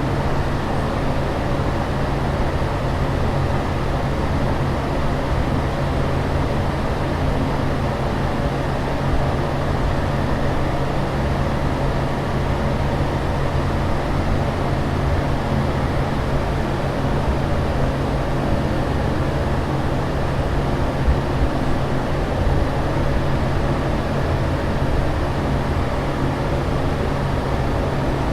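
Steady aircraft cabin noise in flight: a constant, unchanging rush with a low hum underneath.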